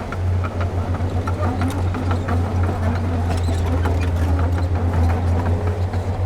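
Heavy construction machine's diesel engine running steadily under load, a deep pulsing hum, with scattered metallic clanks and knocks over it.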